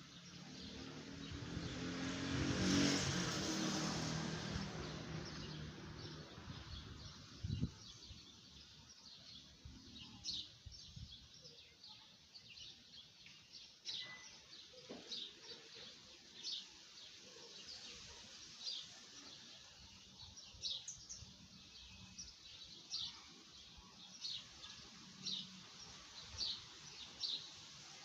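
Small birds chirping outdoors, short high calls repeating every second or so. In the first few seconds a rushing noise swells and fades, louder than the birds.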